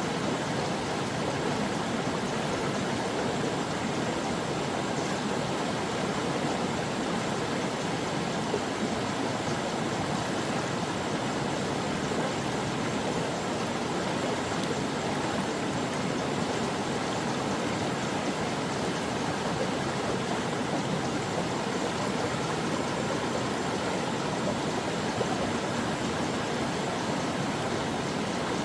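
A stream of water rushing and babbling over rocks, a steady, unbroken flow.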